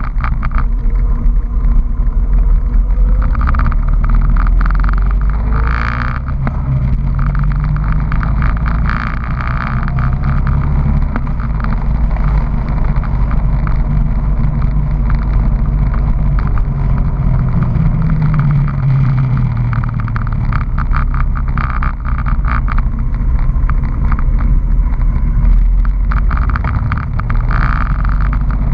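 Honda PC800 Pacific Coast motorcycle's V-twin engine running under way, its note rising and falling with speed as the bike accelerates.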